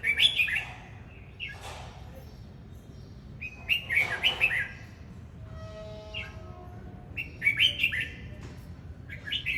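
Red-whiskered bulbul singing: short, chirpy warbled phrases repeated about every three to four seconds.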